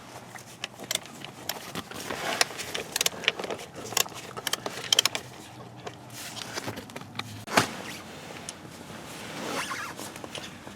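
Irregular clicks, rattles and short scrapes of car parts being handled during a repair, the sharpest click about seven and a half seconds in. A faint low steady hum runs underneath and stops at about the same moment.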